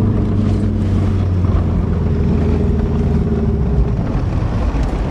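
Subaru Legacy's engine running steadily while the car is driven, with road noise underneath.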